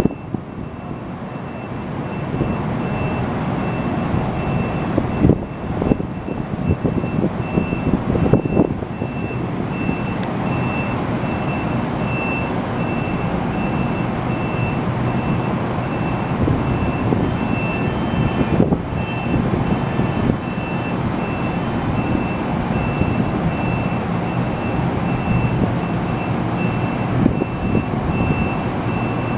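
NJ Transit push-pull train with an ALP-45A locomotive drawing to a stop and standing at the platform, its running equipment giving a steady mechanical drone. A high electronic beep repeats about twice a second throughout, and a couple of sharp knocks come in the first ten seconds.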